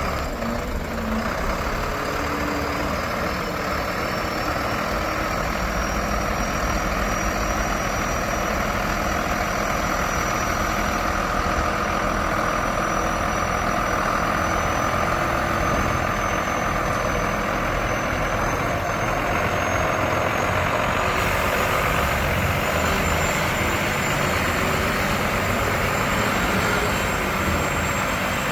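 2014 Iveco Stralis 330 EEV garbage truck's diesel engine running steadily at idle, with a thin high whine that rises slowly in pitch.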